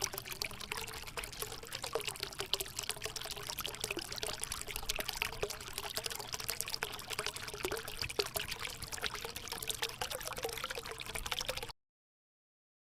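Continuous watery noise like pouring or running water, thick with fine crackles. It starts abruptly and cuts off sharply about a second before the end.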